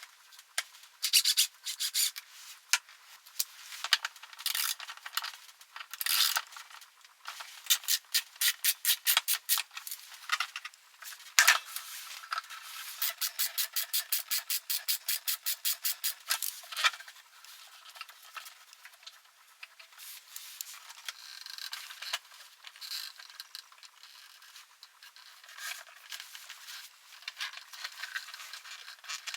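Hand rubbing strokes on a hard surface, in quick rhythmic runs of about four to five strokes a second, with a single sharp click about eleven seconds in.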